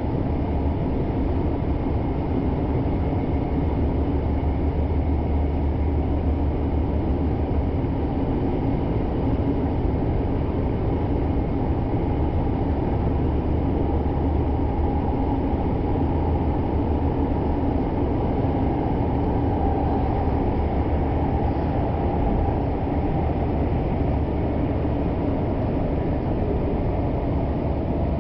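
Kyoto Municipal Subway Karasuma Line train running through its tunnel, heard from inside the car: a steady rumble of wheels on rail and traction motors.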